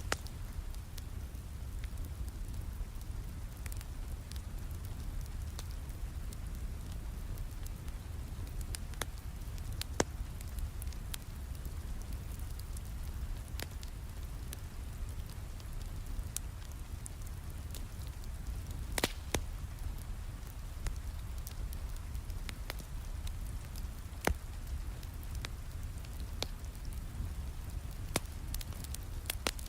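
Wood fire crackling, with scattered sharp pops and a few louder snaps, over a steady low rumble of rain.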